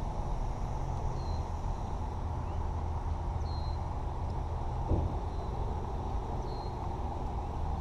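Steady low rumble of distant expressway traffic, with a short high call repeating every two to three seconds and a single soft knock about five seconds in.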